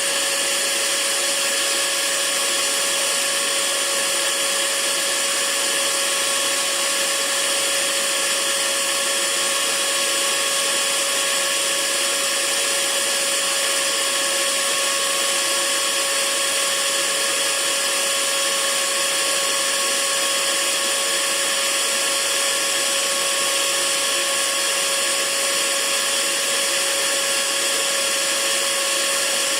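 Hair dryer running steadily: an even rush of blown air with a constant whine from its fan motor.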